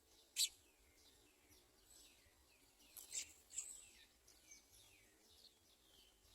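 Small birds chirping: a run of short, high chirps that sweep downward in pitch, with one sharp chirp about half a second in and a louder cluster of chirps around three seconds in.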